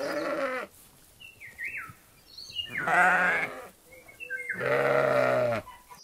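Sheep bleating three times: a short bleat at the start, then two longer quavering bleats about three and five seconds in.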